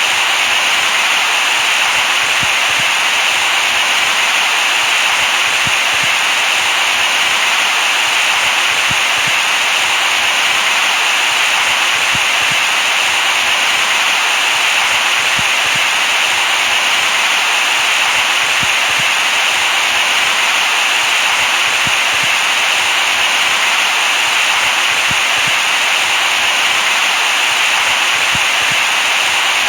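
Steady, loud white-noise hiss with a hushing tone, weighted toward the upper middle and thin in the bass, unchanging throughout.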